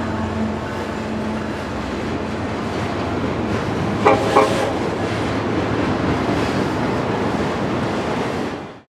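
Train running by with a steady rumble, and two short toots about four seconds in; the sound cuts off abruptly near the end. The train is plausibly Union Pacific 4014 Big Boy steam locomotive.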